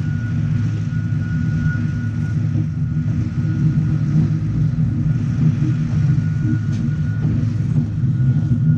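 The Petit Train d'Artouste's narrow-gauge carriages running along the track: a steady, loud low rumble with a thin, steady whine held above it.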